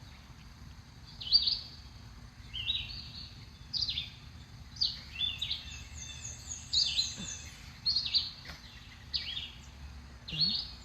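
Songbirds singing: short slurred whistled notes repeated about once a second, with a fast high trill from another bird partway through.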